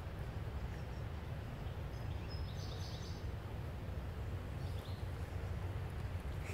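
Steady low outdoor rumble with a small bird chirping briefly, about two and a half seconds in and again near the five-second mark.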